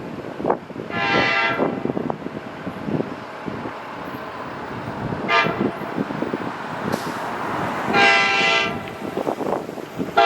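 NJ Transit commuter train's air horn sounding repeated blasts: a long one about a second in, a short one near the middle, another long one about eight seconds in, and a fourth starting at the very end. Underneath is the rising rumble of the approaching train.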